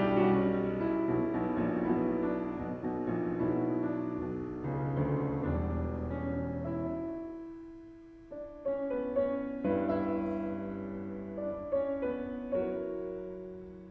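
Background piano music: slow, sustained chords and single notes that fade out after each strike.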